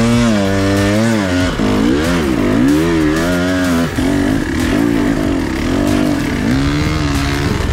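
Trail motorcycle engine revving up and down in quick surges as the throttle is worked, its pitch rising and falling several times, then running steadier with small wobbles after about four seconds.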